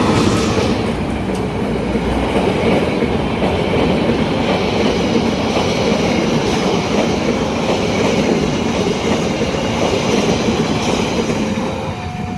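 A train passing close by at a level crossing: a steady rumble with the wheels clattering over the rail joints and some wheel squeal. The crossing's two-tone warning signal, alternating between two pitches, is mostly masked and comes through again near the end as the train noise eases.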